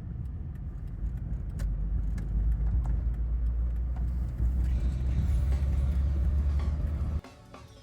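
Car engine and exhaust running, a low rumble that grows louder about two seconds in and cuts off abruptly near the end.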